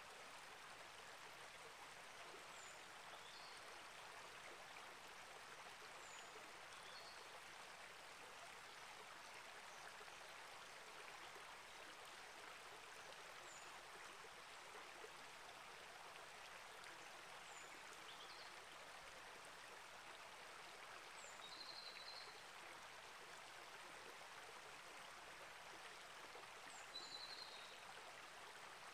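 A small rainforest creek flowing steadily. Short high bird chirps come every few seconds, with two slightly louder calls near the end.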